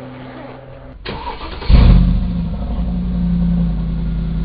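A car engine being started: the starter cranks about a second in, the engine catches with a loud burst, then settles into a steady idle.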